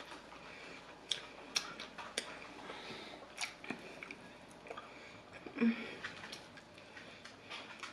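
Close-miked chewing of food, with scattered small mouth clicks. A brief low hum of the voice comes a little past halfway.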